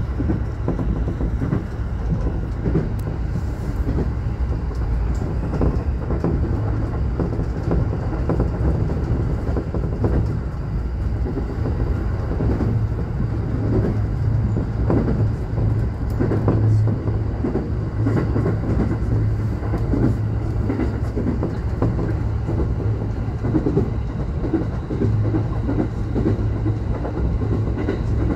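Electric passenger train running, heard from inside its front car: a steady low hum with the wheels clicking irregularly over rail joints and points.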